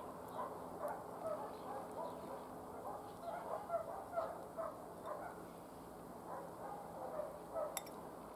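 Many short bird calls chirping over and over in the background, with a faint steady low hum underneath.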